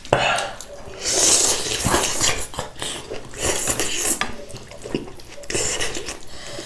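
Utensils clinking and scraping against a bowl, with irregular eating noises, while someone eats hotpot.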